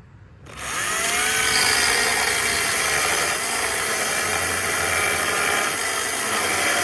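Electric chainsaw starting about half a second in, its motor winding up in pitch, then running steadily as it cuts into wood.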